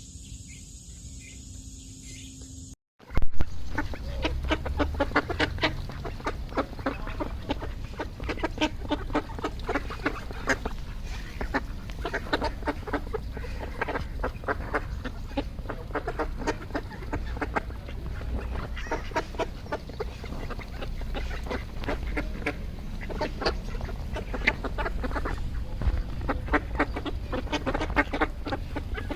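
A flock of ducks quacking, with many calls overlapping densely. The calls start suddenly about three seconds in after a brief gap. Before that there is a steady high chirring.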